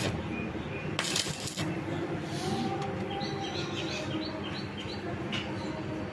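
A small bird chirping, a quick run of short high notes about three seconds in, over a steady low hum, with a brief hissing burst about a second in.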